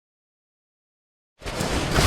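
Complete silence, then about one and a half seconds in a sudden loud rushing crash begins and keeps building: a great grey owl striking down into the snow.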